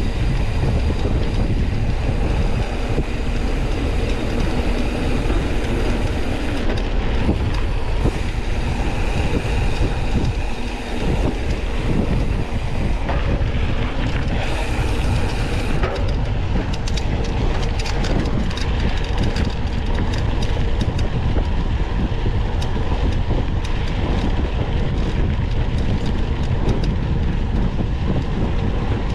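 Mountain bike ridden over rough trail with the camera mounted on it: a steady rumble of wind on the microphone and tyres on the ground, with the bike rattling and clicking over bumps, the clicks coming thicker in the second half.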